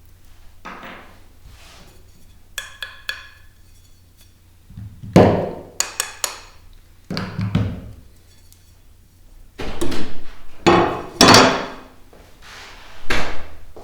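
Irregular knocks and clunks of hard objects being struck or set down, the loudest past the middle, with a short ringing clink about three seconds in.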